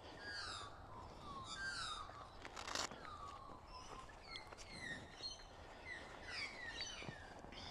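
Forest birds chirping and calling, many short falling whistled notes overlapping, with a brief rustling noise about three seconds in.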